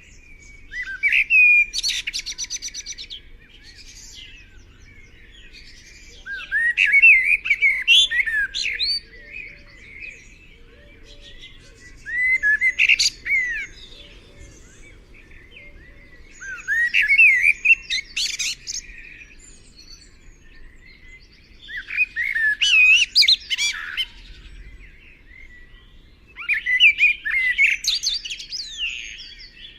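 A songbird singing: a busy phrase of quick chirps, trills and sliding whistles lasting two to three seconds, repeated six times about every five seconds with short pauses between.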